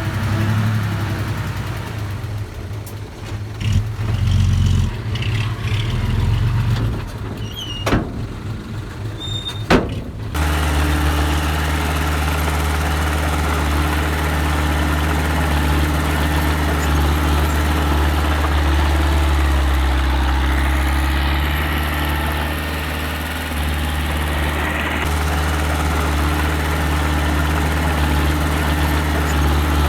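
Engine of a small earthmoving machine working. For the first ten seconds its note rises and falls, with two sharp clacks. About ten seconds in it changes abruptly to a steady heavy drone.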